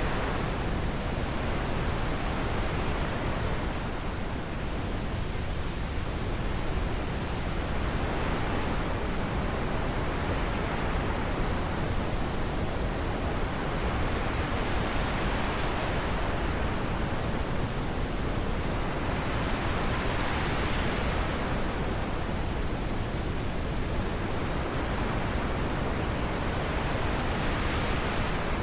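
Wind blowing steadily, a constant rushing noise that swells and eases in slow gusts every few seconds.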